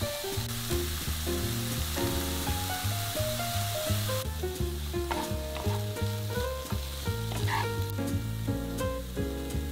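Sliced mushrooms and onions sizzling as they fry in a pan, stirred with a wooden spatula, over background music with a steady bass line.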